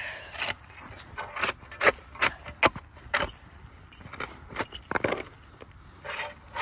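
Shovel blades digging into dirt: a series of irregular scraping and chopping strokes.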